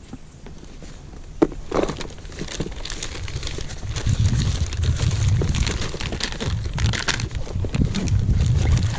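Rummaging through a plastic tackle box: a sharp click about a second and a half in, then irregular rustling and crinkling of handled gear. Low wind rumble on the microphone builds from about halfway.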